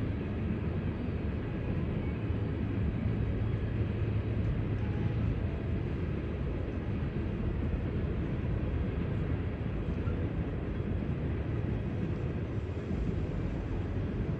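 CSX coal train's freight cars rolling past in a steady low rumble.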